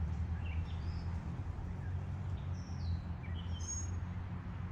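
Several short bird chirps and brief whistled notes, scattered and unrhythmic, over a steady low hum of background noise.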